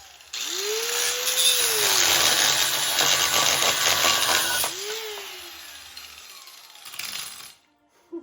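Handheld power tool cutting through a steel exhaust hanger: the motor spins up and cuts for about four seconds with a harsh grating noise, then runs once more briefly and winds down.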